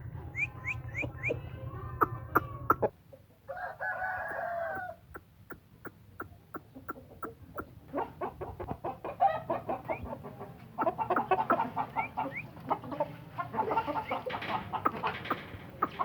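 Aseel chickens: a rooster crows once, a short crow about three and a half seconds in, among clucking and a run of sharp clicks.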